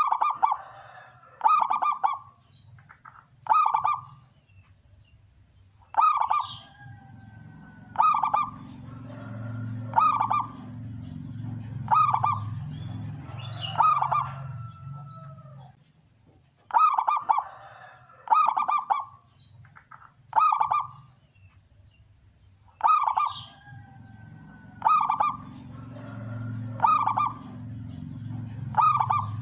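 Male zebra dove (perkutut) singing its cooing song over and over, short staccato notes ending in a deep 'kung', about one call every one to two seconds. A low rumble rises underneath in two long stretches, and a faint steady high tone runs behind.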